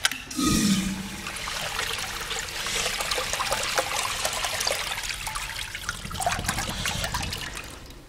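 A click from the Sloan flushometer's push button, then a steady rush of water as the valve flushes a 1-gallon-per-flush American Standard fixture, tapering off near the end.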